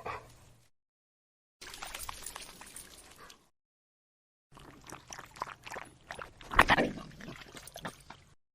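Short dog sound clips cut together with dead silence between them: the end of a whine, then about two seconds of noisy sound, then about four seconds of quick clicking, noisy sounds with a loud burst around the middle.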